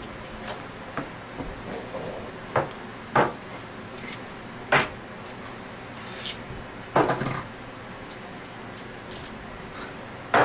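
Small metal parts and tools clinking and knocking on a workbench, about half a dozen irregular knocks with a bright metallic ring, as needle bearings are fitted into an Anest Iwata ISP250 scroll pump. The loudest cluster of clinks comes about seven seconds in.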